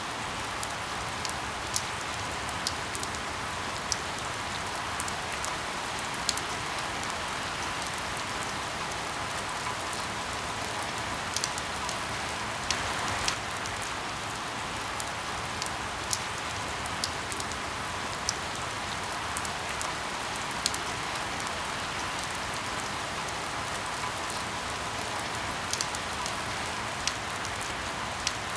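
Steady rain hiss with irregular sharp pops of crackling firewood, about one every second or two.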